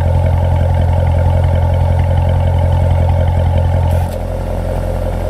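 C7 Corvette Z51's 6.2-litre V8 idling loudly through its dual-mode exhaust. About four seconds in, the deep idle note drops suddenly to a quieter level as the drive mode is switched from Sport/Touring to Eco/Weather and the exhaust valves close.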